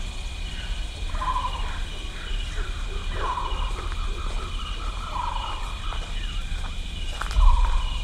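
Bird calls repeating about once every two seconds, over a steady high whine and a low rumble.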